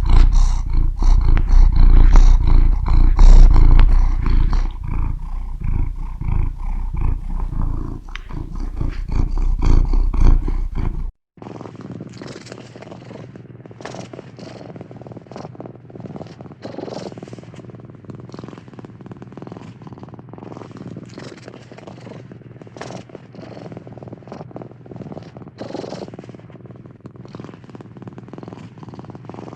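Domestic cat purring close to the microphone, a loud low pulsing rumble. About a third of the way through it cuts off abruptly, and a quieter purr follows with a steady low hum and frequent small clicks.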